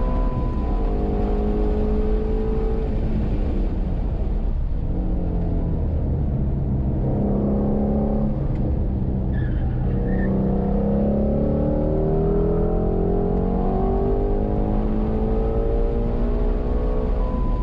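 Ford Shelby GT350's 5.2-litre flat-plane-crank V8 under hard track driving, heard from inside the cabin. The revs climb and fall again and again as the car accelerates, shifts and slows for corners. A brief high beep sounds near the start and again near the end.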